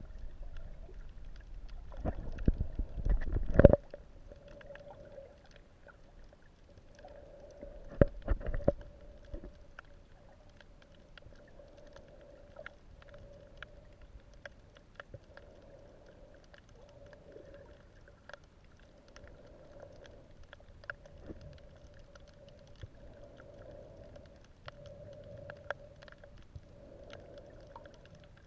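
Underwater sound: a steady, wavering hum with many scattered sharp clicks, broken by two loud rushing bursts, one about two seconds in and one about eight seconds in.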